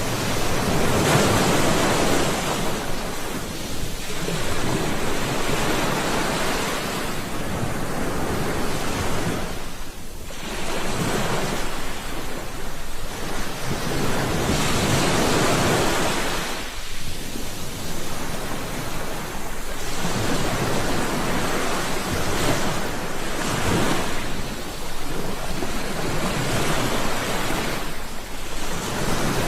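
Sea waves washing in, surging and falling back every few seconds.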